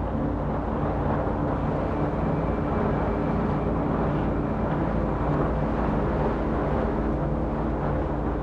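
Off-road 4x4 truck driving steadily on a snowy trail: the engine runs at an even pitch under a constant rush of tyre and wind noise.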